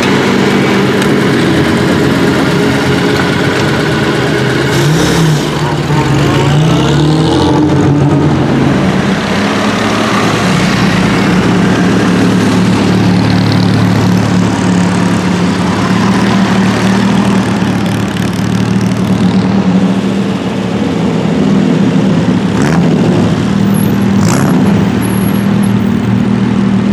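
Vintage car engines running at low speed, idling and pulling away, with a brief rise and fall in revs about five seconds in and a few sharp cracks near the end.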